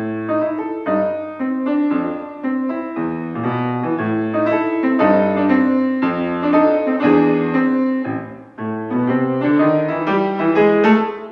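Piano playing a melody over chords, with a short break about eight and a half seconds in before the playing resumes.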